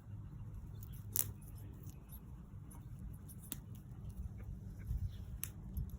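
Plant stems being picked off by hand, a few sharp snaps and clicks among soft rustling and handling noise.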